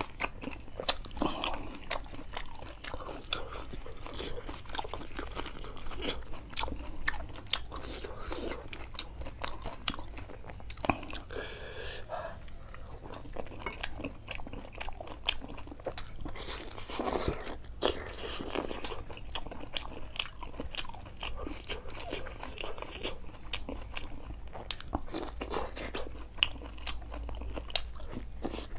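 Close-miked chewing and biting of chicken curry pieces eaten by hand: a steady run of quick mouth clicks and smacks, with a few longer noisy stretches near the middle.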